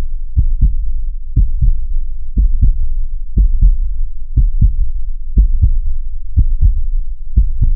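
Heartbeat sound effect: low double thumps (lub-dub) repeating steadily about once a second, a resting pulse of roughly 60 beats a minute.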